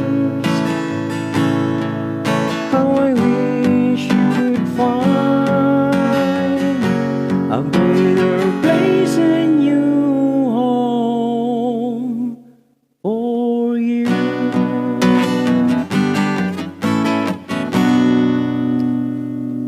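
Acoustic guitar strummed in a slow song's closing passage. The music breaks off to silence for a moment about twelve and a half seconds in, then the strumming starts again.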